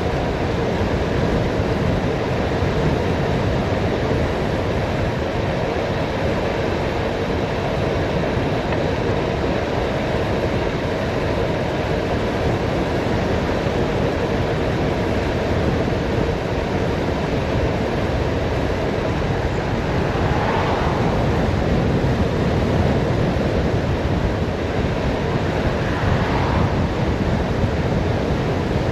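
Steady wind rush buffeting the microphone of a bicycle rider coasting downhill at speed.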